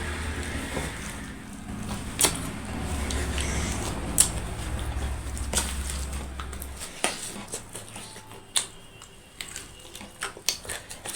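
Mukbang eating sounds: scattered sharp clicks and crunches of chewing and handling food, over a low rumble that stops about seven seconds in.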